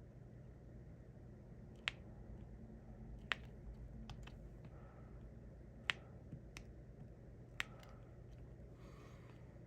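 Sharp, irregular clicks of a diamond-painting pen tapping resin drills onto the canvas, a few loud ones a second or two apart among fainter ticks, over a low steady hum.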